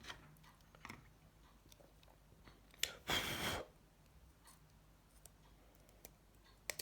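Faint clicks of small plastic and metal mobile-phone parts being handled, with one short scraping rustle about three seconds in.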